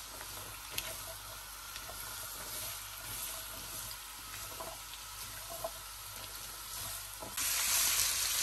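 Carrot sticks frying in desi ghee in a non-stick wok: a soft, even sizzle with small clicks and scrapes of a spatula stirring them. About seven seconds in, the sizzle suddenly gets much louder.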